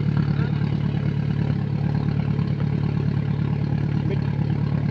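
Off-road 4x4 engine idling steadily with a fast, even low pulse.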